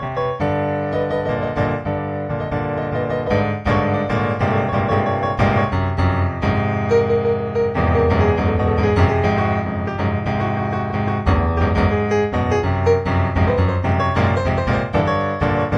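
Background piano music, a flowing piece with many notes.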